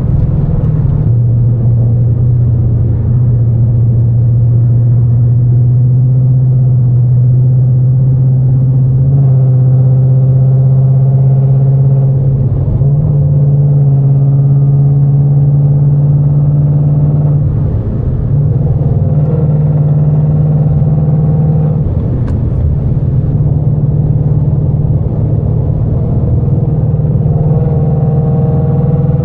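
Mustang GT's 5.0 L V8, catless and straight-piped, running loud under load. Its note holds fairly steady for several seconds at a time and steps up and down in pitch a few times.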